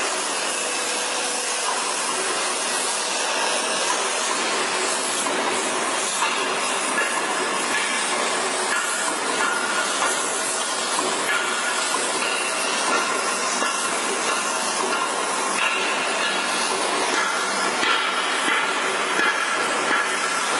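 Heavy lathe cutting metal: a steady hiss with short, high squealing tones that come and go.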